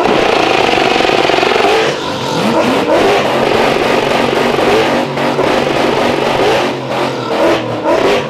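Drag race car engines running loud at a cacklefest, the throttle blipped several times over a steady idle so the pitch rises in repeated sweeps.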